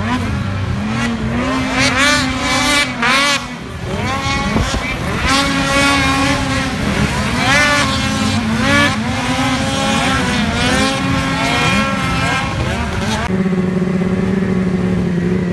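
Several two-stroke snocross race snowmobiles revving up and down on the track, their engine notes overlapping and rising and falling in pitch as they accelerate and back off. About thirteen seconds in, this gives way to a steadier, lower engine note.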